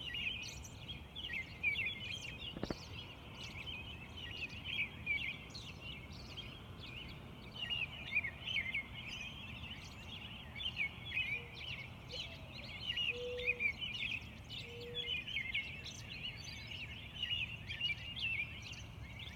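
Early morning bird chorus: many birds chirping and singing at once in a dense, continuous stream of short, high notes. A few short, low notes come in about two-thirds of the way through.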